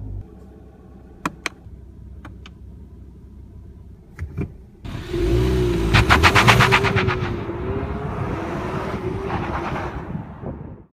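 A 2015 Ford Mustang EcoBoost's turbocharged 2.3-litre four-cylinder launches and accelerates hard away, starting abruptly about five seconds in. It is loudest about a second after it pulls off, then fades steadily as the car draws away. Before the launch there are a few sharp clicks over a low background.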